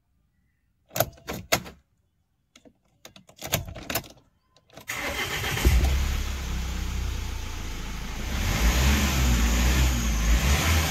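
A few clicks, then the Mahindra Scorpio's diesel engine cranks briefly and starts about five seconds in. It settles into a steady run, then speeds up for a couple of seconds near the end.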